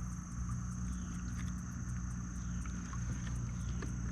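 Steady low hum of the kayak's electric trolling motor running, with a thin, steady high insect drone over it.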